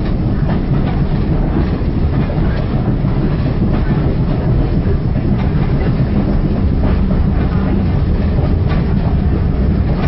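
Steady rumble of a railway carriage running along the line, heard from inside the carriage, with the wheels clicking now and then over rail joints.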